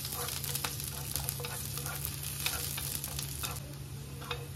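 Sliced shallots and garlic frying in hot oil in a nonstick pan: a steady sizzle with many small crackles, over a steady low hum.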